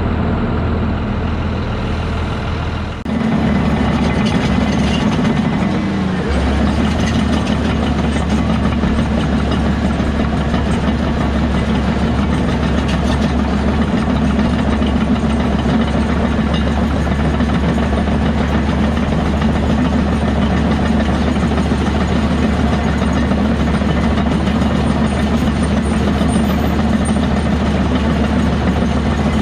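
Heavy diesel earthmoving machinery running steadily. The sound changes and gets a little louder about three seconds in.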